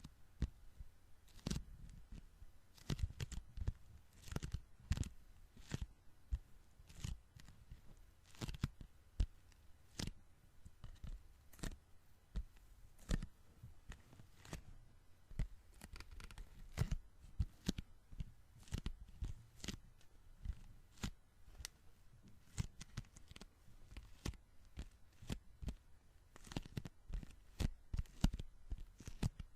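Sticky hands pressed together and pulled apart, making quick irregular crackling, peeling ticks with soft low thumps, several to the second.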